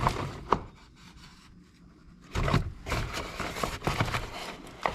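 Hands working small parts on a Stihl MS390 chainsaw: a couple of sharp clicks at the start, then after a short pause a few seconds of rubbing and scraping with light knocks.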